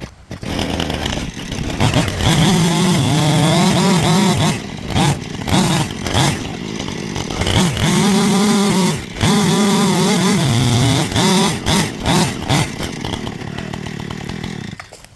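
Gas chainsaw throttled up from idle and cutting into a pine trunk, the engine pitch sagging and recovering as the chain bites, with a few brief dips when the throttle eases. It drops off sharply near the end.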